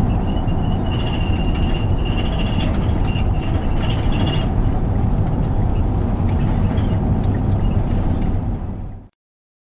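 Train passing: a steady heavy rumble with a high squeal of steel wheels on the rails over the first four seconds or so. The sound cuts off suddenly about nine seconds in.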